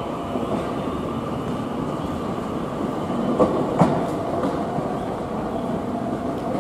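Keio 1000 series electric train running past along the platform, with a steady rumble and a faint motor whine. Its wheels clack twice over a rail joint just past halfway through.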